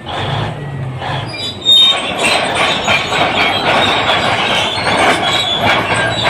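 Crawler bulldozer's diesel engine running; a little under two seconds in, loud metallic clanking and squealing from its steel tracks sets in and keeps going as it moves.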